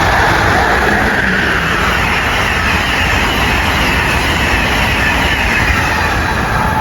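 Amtrak Northeast Regional passenger train passing the platform, a loud steady rush of wheels on rail.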